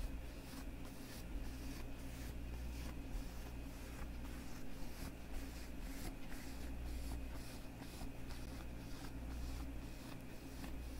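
Leather gloves rubbed and squeezed by the hands, soft rustling, creaking strokes repeating about twice a second over a steady low hum.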